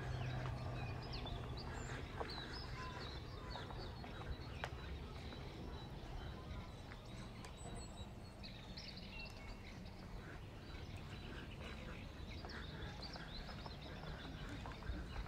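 Small birds chirping now and then over steady outdoor background noise, with a low hum in the first second.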